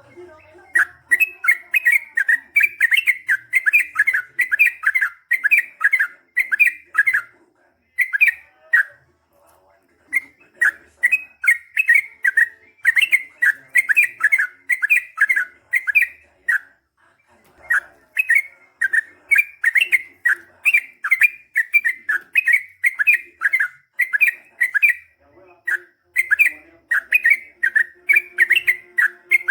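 Yellow-vented bulbul (trucukan) singing loudly in long, rapid runs of bright chirping notes, each run lasting several seconds and separated by short pauses. This is the long 'ropel' song that keepers call gacor.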